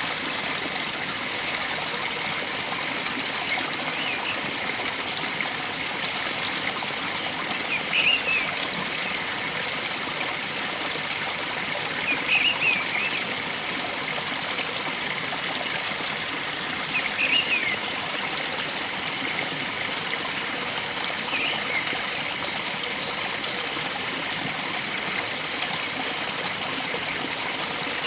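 Steady rush of flowing water, like a stream or small waterfall, with a bird giving short chirping calls about every four or five seconds.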